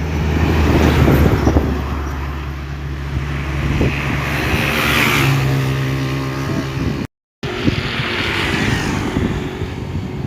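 Isuzu Giga diesel tank trucks running past in a convoy: a steady engine drone with a rushing hiss that swells twice as trucks go by. The sound cuts out for a moment about seven seconds in.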